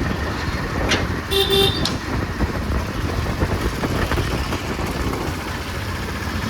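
Steady rumble of road traffic and a moving vehicle, with a short vehicle horn toot about a second and a half in.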